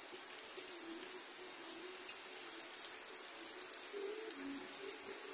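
Steady rain falling, an even hiss, with a constant high-pitched tone over it and faint low calls that waver up and down in pitch now and then.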